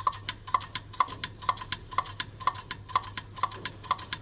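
Hand-lever Hydrolastic suspension pump, a modified grease gun, being worked on a Morris 1100's Schrader valve: an even run of sharp clicks, about two strong ones a second with lighter ones between, as fluid is pumped in to raise the ride height.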